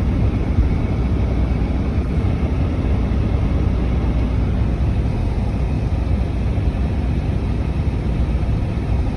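Steady low rumble inside a car's cabin, the engine, road and strong wind noise running together without a break.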